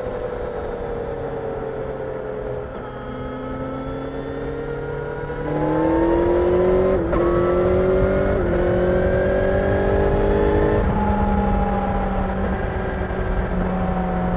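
Kawasaki Ninja 1000SX inline-four engine riding along, first easing off with its pitch slowly falling, then opening up about five seconds in. The pitch climbs through two quick gear changes before the throttle eases off near the end, over a low rumble of wind and road noise.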